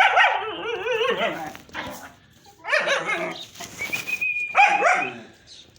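German Shepherd dog vocalizing in three drawn-out calls that waver up and down in pitch. The first call is about a second and a half long.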